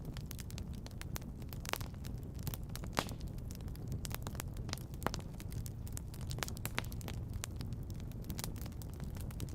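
Wood fire crackling in a fireplace: frequent sharp pops and snaps, a few louder ones, over a steady low rumble.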